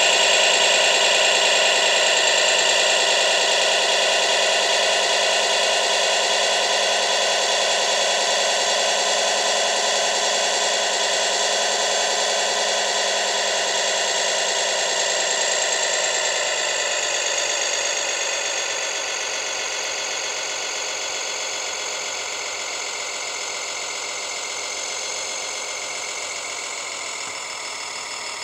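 Tamiya RC Scania 6x6 truck running with a steady, many-toned whine that drops in pitch about two-thirds of the way through and slowly fades.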